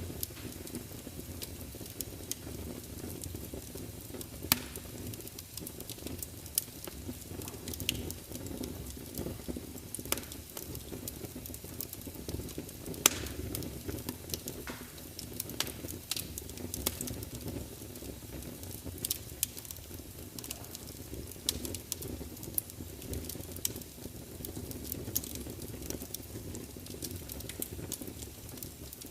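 Large wood fire burning in a fireplace: a steady low rumble of flames with frequent sharp crackles and pops from the logs, spitting at irregular intervals.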